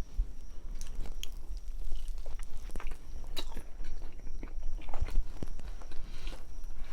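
A person chewing and biting into a grinder sandwich close to the microphone. Irregular wet mouth clicks and smacks come a few times a second.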